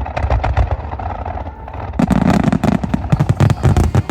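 Fireworks display: a rapid series of shell bursts and bangs, several a second, getting denser and louder about halfway through.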